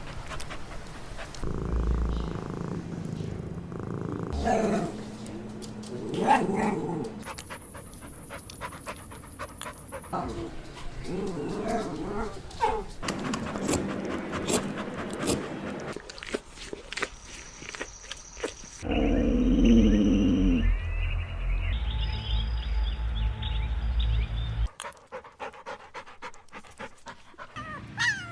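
Small-breed puppies vocalising through a run of short spliced clips: brief high-pitched calls and some growling, with the background changing abruptly at each cut.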